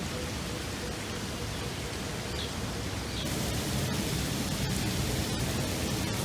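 Steady rushing hiss of outdoor background noise, with no distinct event; it gets brighter about three seconds in.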